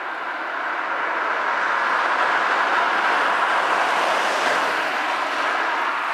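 A train running past, a steady rushing noise that swells over the first couple of seconds.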